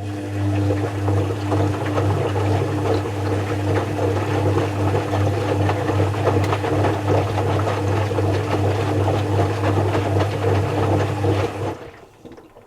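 Zanussi FC1000 compact washing machine running, a steady low hum with busy clattering, stopping suddenly near the end.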